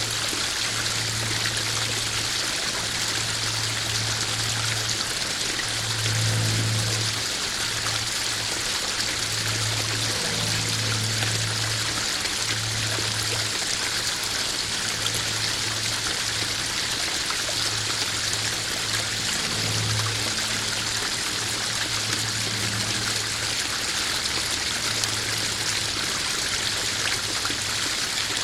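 Koi pond waterfall running steadily: an even splashing hiss of falling water, with a low rumble underneath that comes and goes.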